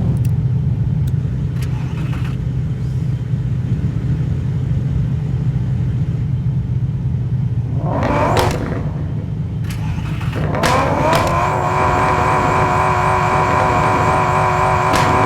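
Car engine idling with a steady low rumble, with a few light clicks in the first couple of seconds. A steady pitched tone with several overtones comes in about two-thirds of the way through and holds to the end.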